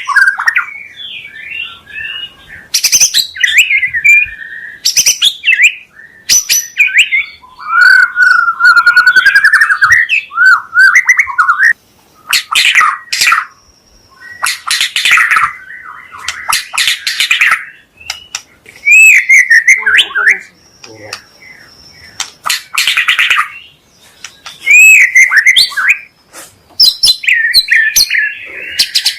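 White-rumped shama singing: a loud, varied string of whistled phrases mixed with rapid, harsh scratchy notes, broken by short pauses.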